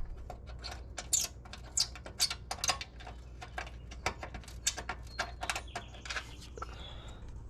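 A series of irregular sharp clicks and clinks, a few each second, from hand-tool work on metal parts, over a steady low hum.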